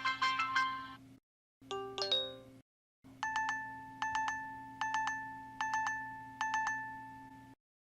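BlackBerry Z10 system alert tones played in turn: the end of a melodic ringtone, a short chime, then a repeating alert of quick triple beeps about once every 0.8 seconds, five times. A steady low hum from a computer monitor runs underneath.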